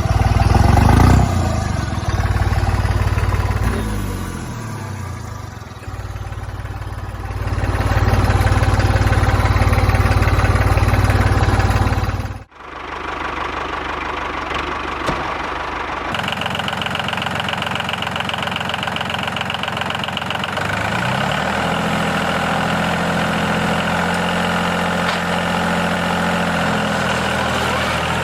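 Engine-like running sound from a miniature tractor, idling with its pitch falling off and later climbing again. It breaks off abruptly about twelve seconds in and resumes with a different, lighter running tone.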